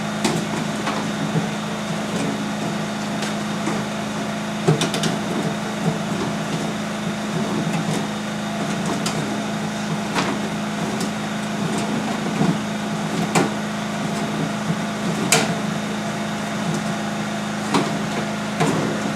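Duct-cleaning vacuum machine running with a steady hum, with irregular sharp knocks and taps every second or two.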